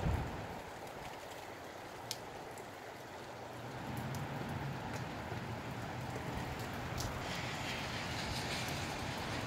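Rain and gusty wind, a steady hiss with a few scattered sharp taps; a low rumble builds from about four seconds in and holds.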